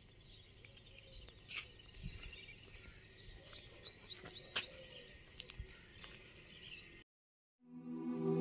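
Faint outdoor ambience with a bird calling a quick run of short, high, descending chirps about three seconds in, and a few sharp clicks. The sound cuts out about seven seconds in, and background music fades in near the end.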